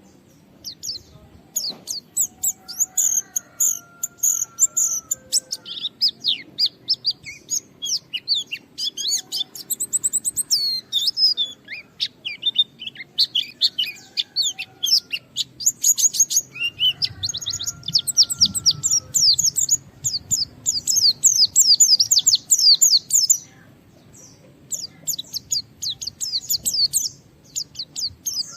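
White-eye (pleci) singing hard in long, fast runs of high chirps and trills, broken by short pauses. This is the loud, persistent "gacor" song of a bird challenging a rival. A fainter, lower whistled note recurs in the background.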